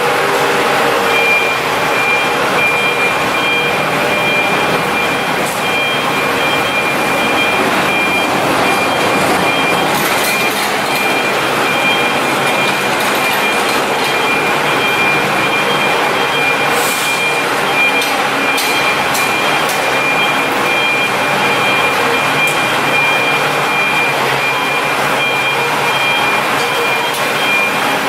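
Shangchai diesel engine of a 500 kW open generator set running steadily at a constant loud level. A high pulsing beep sounds over it from about a second in.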